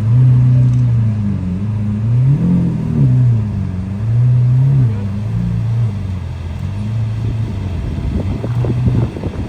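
Car engine idling and revved up and back down about three times in the first five seconds, then settling back to a steady idle.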